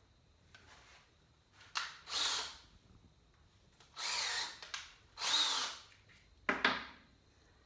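Power drill run in four short bursts of about half a second each, with pauses between.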